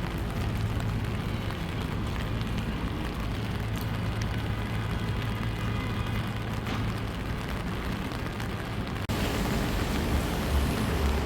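Rainy city street ambience: a steady hiss of rain and wet traffic with a low engine hum. The background changes abruptly about nine seconds in.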